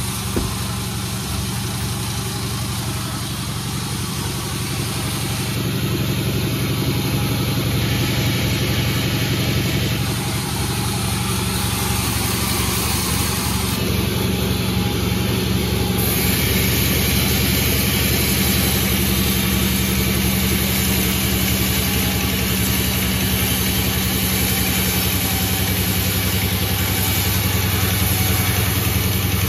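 Engine-driven log sawmill running steadily through a bayur log cut, a constant low engine drone under a broad noisy layer that shifts in level every few seconds.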